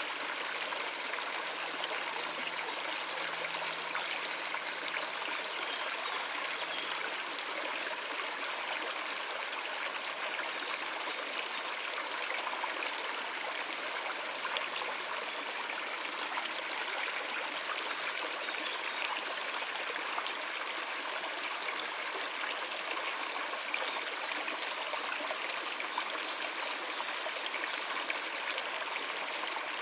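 Water running over rocks in a shallow stream: a steady rushing and trickling. A few short high bird chirps come through about three-quarters of the way in.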